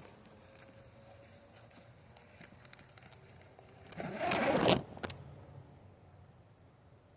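A brief scraping rustle about four seconds in, among scattered light clicks of handling noise.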